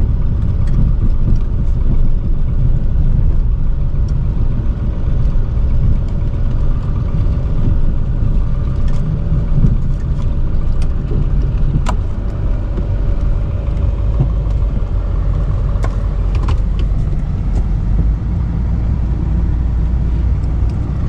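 Chevy K3500 dually's Duramax V8 turbodiesel running steadily as the truck drives, a continuous low rumble. A faint steady whine sits over it through the middle, with a couple of sharp clicks around the middle and later on.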